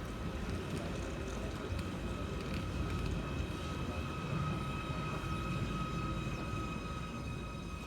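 Merseyrail Class 777 electric multiple unit: a steady low rumble with a steady high electrical whine over it.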